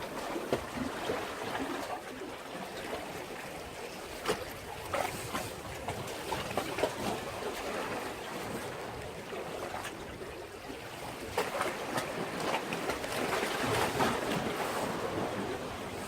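Sea waves washing and splashing against a breakwater, a steady wash full of small crackling splashes, swelling louder about three quarters of the way through.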